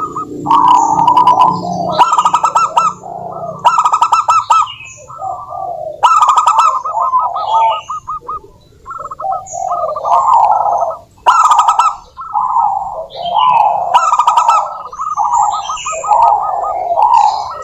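Zebra dove (perkutut) singing its cooing song over and over: phrases of rapid, stuttering notes about a second or two long with short pauses between them.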